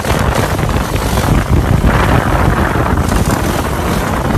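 Loud wind buffeting the microphone, with a heavy low rumble underneath.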